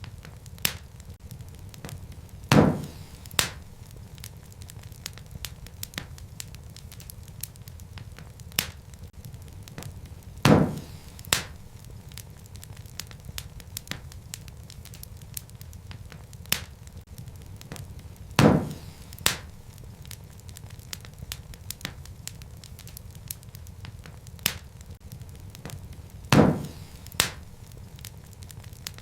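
Wood fire burning in a fireplace: a low steady rumble of flames under many small scattered crackles, with a loud sharp pop followed by a smaller one under a second later, repeating about every eight seconds.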